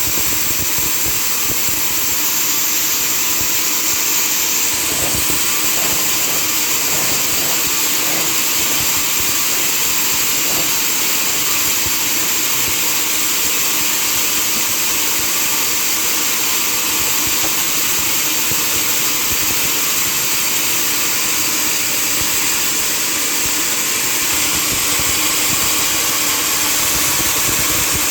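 Sawmill machinery running steadily, a loud, even mechanical noise while mahogany is being milled.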